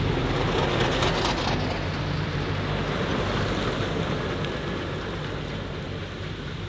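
Hillclimb racing car's engine running hard as the car drives away, its sound fading gradually.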